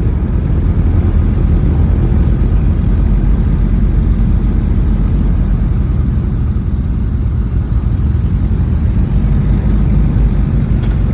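Beechcraft RC-45J's twin Pratt & Whitney R-985 radial engines running steadily at low taxi power.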